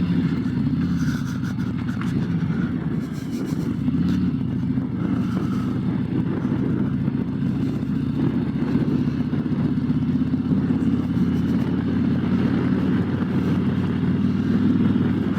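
Harley-Davidson Road Glide's V-twin engine running steadily while the bike cruises at an even speed.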